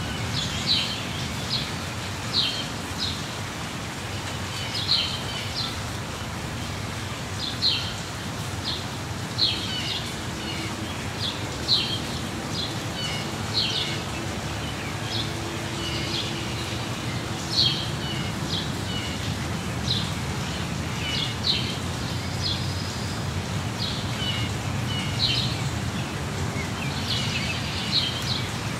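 Steady rain falling, with a bird chirping over it in short, high calls every second or two.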